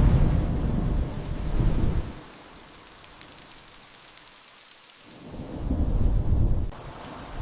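Thunder rumbling over heavy rain: one deep roll lasting about two seconds, a stretch of steady rain hiss, then a second roll of thunder near the end.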